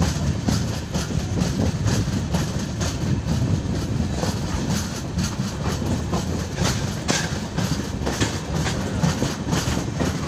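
Mandovi Express passenger coach running along the track, heard from an open doorway: a steady rumble of wheels on rail with frequent sharp clicks.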